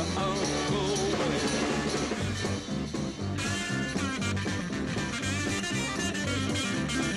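1960s beat-group pop music with electric guitar, bass and drums keeping a steady beat, and a voice singing briefly near the start.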